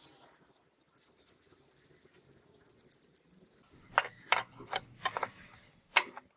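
Small hard parts being handled: light scratching and ticking, then about six sharp clicks over the last two and a half seconds.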